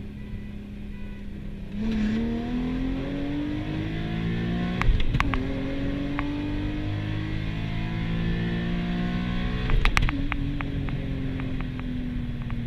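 Nissan Z's V6 through a full ISR exhaust with ISR Y pipe: steady low engine note, then the revs climb about two seconds in and the note holds high. Sharp exhaust pops and crackles twice, about five and ten seconds in.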